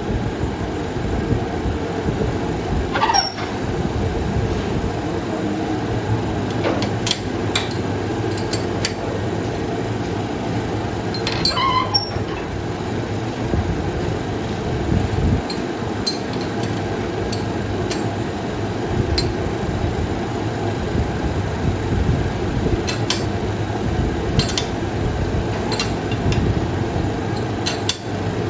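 A machine running steadily with a low rumble, with occasional light metal clinks and taps from work on the metal wheel hub.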